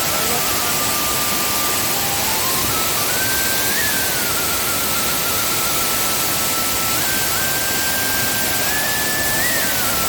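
Steady, loud rush of a rain-swollen waterfall, with a thin, slow melody of background music stepping up and down above it.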